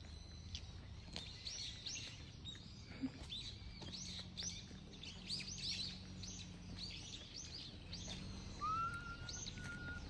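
Small birds singing among cherry trees: many short, high chirps repeated throughout. About a second and a half before the end, a single longer whistled note slides up and then holds steady.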